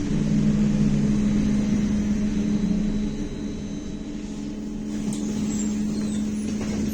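Inside a BKM-321 trolleybus under way: a steady hum from the electric traction drive over tyre and road noise. A lower hum drops out about three seconds in, and the sound eases off a little before picking up again.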